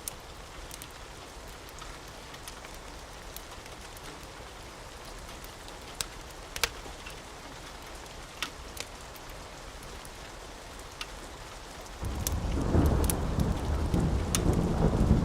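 Steady rain with scattered sharp pops, then about twelve seconds in a loud, low roll of thunder breaks in and keeps rumbling.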